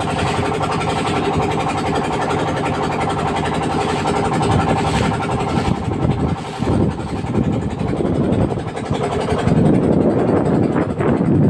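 Boat engine running steadily with a constant hum. A rougher, uneven rushing noise grows stronger through the second half.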